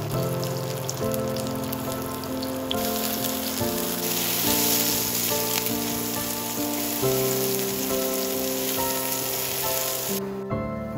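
Sliced mushrooms sizzling as they fry in oil in a frying pan, over background music. The sizzle grows loud about three seconds in and stops suddenly near the end.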